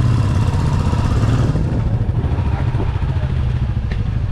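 Royal Enfield Classic 350's single-cylinder engine running with a steady low exhaust note; a hiss over it fades about one and a half seconds in.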